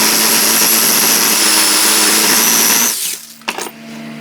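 Saber saw with a metal-cutting blade cutting through a solid steel pin, running steadily with a high whine, then stopping abruptly about three seconds in. A couple of sharp clicks follow.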